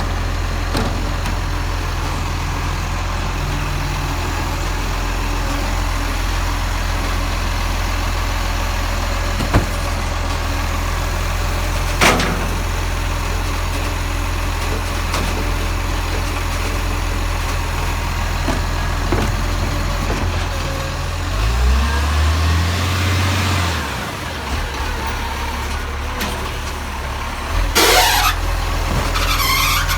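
Garbage truck's diesel engine running at a steady idle, with a few sharp clunks and a brief rise in revs about twenty seconds in before it settles back to idle.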